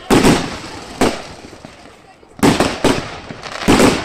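Fireworks going off: about five loud, sharp bangs in quick succession, each trailing off into a short rumble, with a brief lull around two seconds in.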